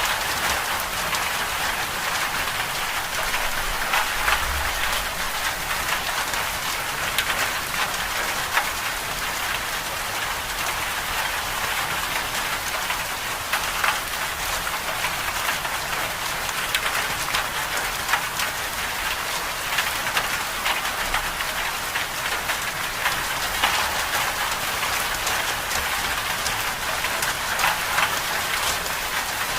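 Steady winter-storm ambience: a dense, even hiss of falling precipitation, with many fine drops tapping on a surface.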